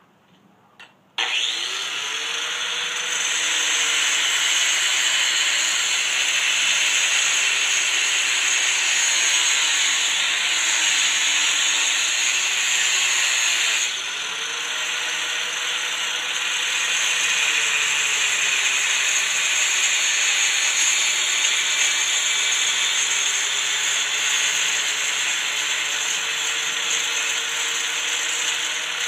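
Drill Master angle grinder switched on about a second in and running steadily while grinding, a loud rasping sound whose pitch wavers as the load changes, with a brief drop in level about halfway through.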